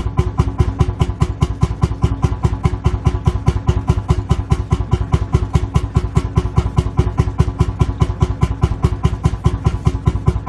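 Lanz Bulldog's single-cylinder two-stroke hot-bulb engine idling, a steady, even chuffing beat of about five firing strokes a second.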